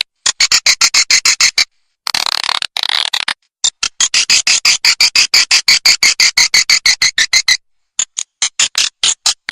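Swiftlet lure-call recording: runs of rapid, sharp swiftlet chirps, about eight to nine a second, broken by short gaps, with a denser twittering stretch about two seconds in.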